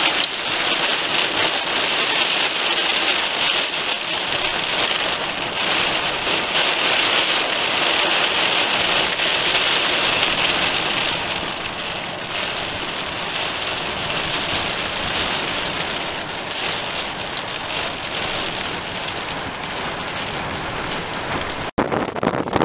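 Heavy rain falling and pattering on surfaces as a steady dense hiss, easing slightly about halfway through. It cuts out briefly near the end.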